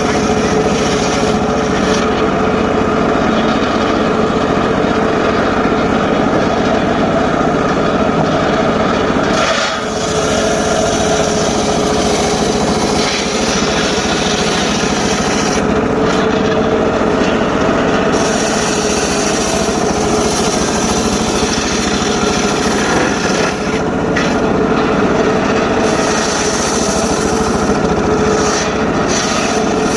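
Homemade circular saw running steadily and cutting through short teak wood, a continuous loud sawing noise over a steady whine, with a brief dip about ten seconds in.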